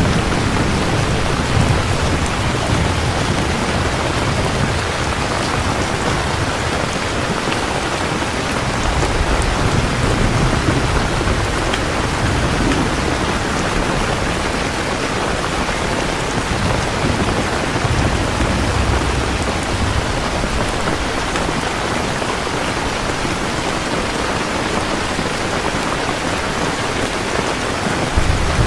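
Heavy steady rain falling, with low rolls of distant thunder swelling and fading several times beneath it.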